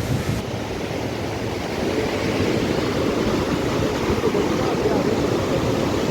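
River water rushing steadily as it spills over a cascade, an even noise with no distinct events.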